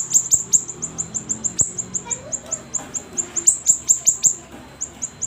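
Siri-siri songbird singing actively: a rapid run of high, sharp chirps, each dropping quickly in pitch, about eight a second, broken by short pauses.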